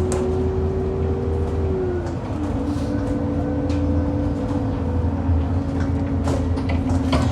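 Bus heard from inside on the move: a steady engine drone with a whine that drops in pitch about two seconds in, and a few sharp knocks over the rough road, the loud knocking over potholes this bus is known for.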